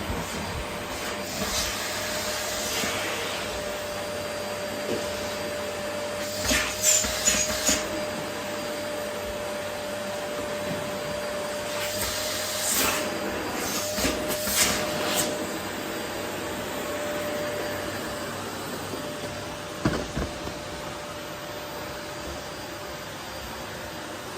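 Vacuum cleaner running steadily while sucking up rose petals, a constant rush of air with a steady whine. Several short, louder rushes and clicks come about a quarter of the way in, again past the middle, and once more later on.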